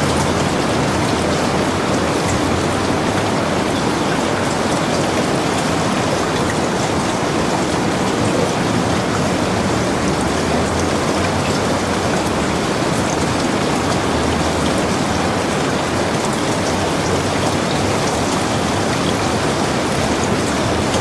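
Heavy rain falling steadily, a dense even hiss with scattered individual drops ticking on surfaces.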